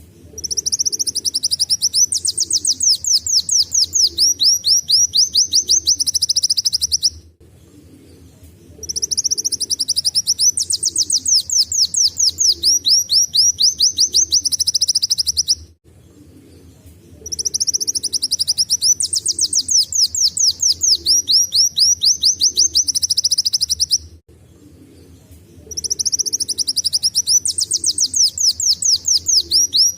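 Kolibri wulung sunbird singing in a canary-like style. Its song comes in phrases of about six to seven seconds, made of very rapid high trills and quick downward-sweeping notes, and each phrase is followed by a short pause. Four phrases come at an even pace.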